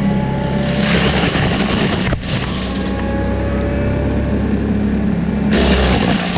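Forestry mulching machine running, a steady heavy engine drone with a faint whine above it; the sound breaks off briefly about two seconds in and changes character near the end.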